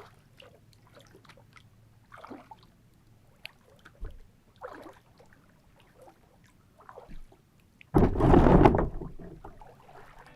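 Small water splashes and drips around a kayak, in short scattered bursts, with a loud rushing noise about eight seconds in that fades over a second or two.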